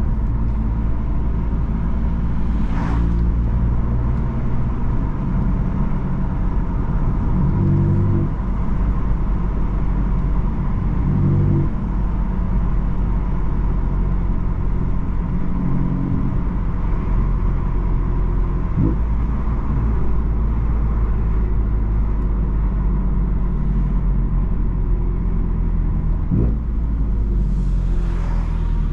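BMW M3 F80's twin-turbo straight-six with an M Performance exhaust, driving at low speed, its revs rising briefly under light throttle and falling back, over a steady low road rumble. Another car passes with a short rushing sound near the end.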